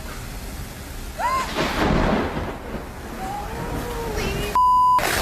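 A loud thunderclap about a second in, rumbling over steady rain, with voices crying out. Near the end a steady beep blots out the other sound, like a censor bleep.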